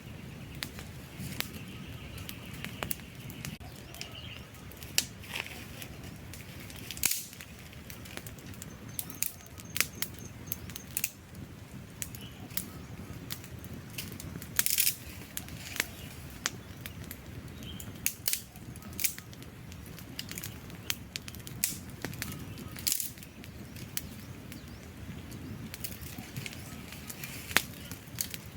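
Wood campfire crackling: irregular sharp pops and snaps of burning logs over a steady low rush of flames.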